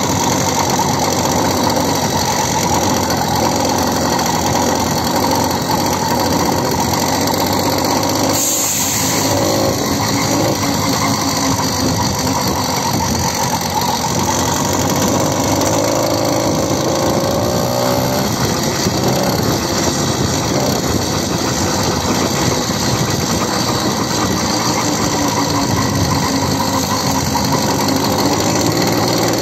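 Motorcycle engine running on the move, its pitch slowly rising and falling with speed, under a steady rush of noise. A brief hiss about eight seconds in.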